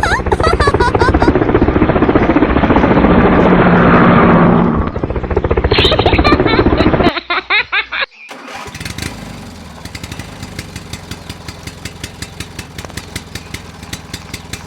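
A loud engine running for about seven seconds, then a quieter steady mechanical sound with rapid, even ticking.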